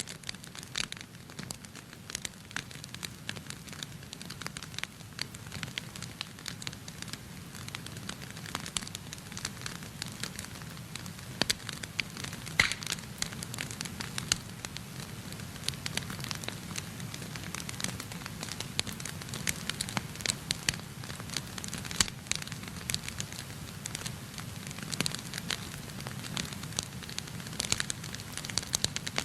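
Wood fire burning in a fireplace: irregular crackles and sharp pops of burning logs over a steady low rumble of the flames.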